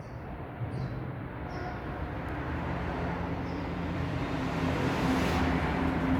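A motor vehicle approaching, its engine hum and road noise growing steadily louder.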